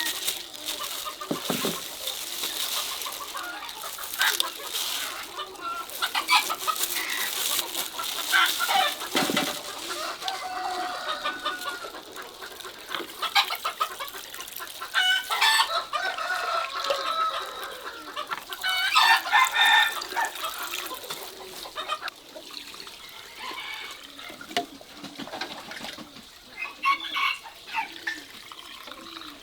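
Chickens clucking, with short repeated calls and a few sharp knocks in between.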